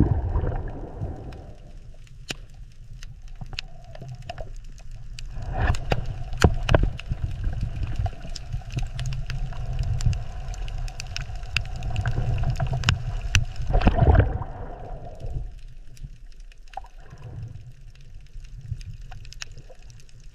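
Water gurgling and sloshing with a low rumble and many small clicks, swelling louder twice.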